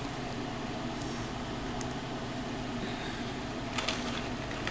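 Steady low hum of a fan or air conditioner, with a couple of faint clicks near the end from small plastic action-figure parts being handled.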